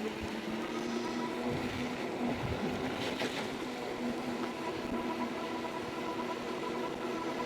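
Jansno X70 electric bike's 750-watt motor whining steadily while being ridden, with tyre and wind noise underneath. There is a brief rattle about three seconds in.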